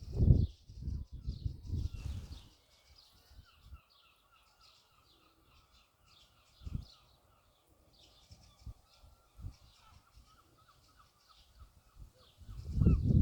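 Birds chirping and calling, with a long run of quick repeated notes through the middle. Loud low rumbles come in the first two seconds and again near the end.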